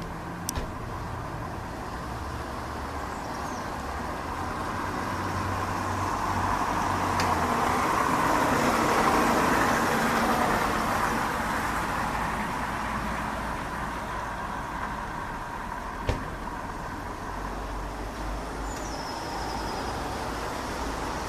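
Rumble of a passing vehicle that swells to a peak about nine seconds in, then fades. A bird gives a short falling call near the end.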